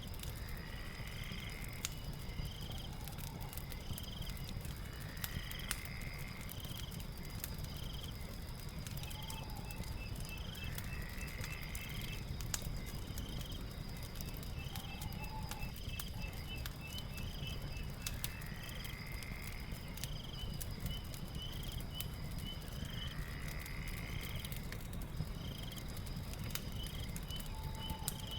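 Night ambience over a crackling fire: a low steady rumble with scattered sharp crackles, a continuous high insect trill, and rows of short repeated chirps. Every four to six seconds a call rises in pitch, and shorter, lower calls come now and then.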